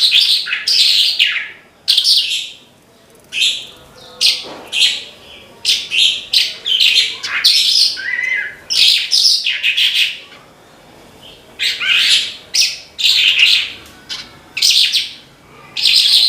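Javan bush lark (branjangan) singing loudly: a long run of short, high chirping phrases, one after another with brief pauses between them.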